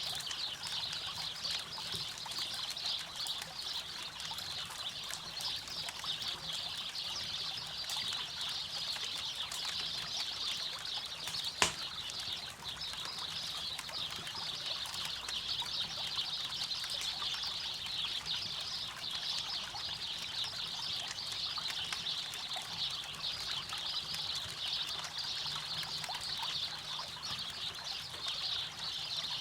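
Campfire crackling over a steady flowing river, with one sharp, loud pop from the fire about twelve seconds in.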